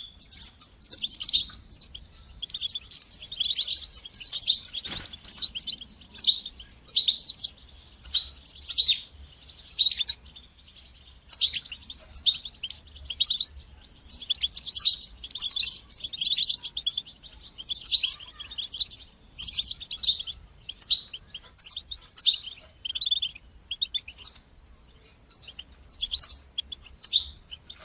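European goldfinch singing: quick runs of high twittering notes in short phrases, with brief pauses between them.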